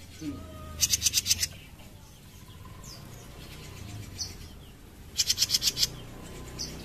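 A newly caught jenggot mini, a small brown cage songbird, gives two fast buzzing rattles of about a dozen notes each, about a second in and again about five seconds in. A few short high chirps come between the rattles.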